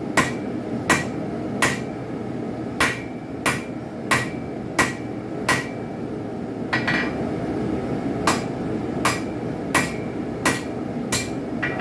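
Hand hammer striking a hot railroad spike on an anvil, about fifteen blows at a steady pace of roughly one every 0.7 s with a pause in the middle. Each blow rings briefly. This is the forging of a spike knife blade.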